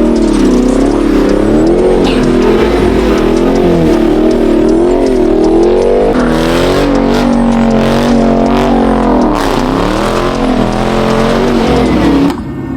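Full-bolt-on Chevrolet Camaro engine revving hard, its pitch repeatedly rising and falling as the car is driven and slid. It cuts off sharply near the end.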